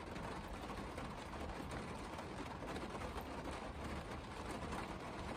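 Steady rain falling on a car's roof and windows, heard from inside the cabin: an even hiss with many faint ticks.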